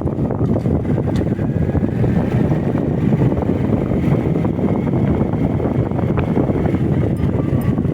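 Wind rushing over the microphone of a moving motorcycle, with steady engine and road noise underneath.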